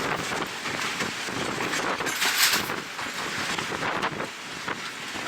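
Wind buffeting the microphone at an open window of a moving passenger train, over the train's running noise, with a louder gust about two seconds in.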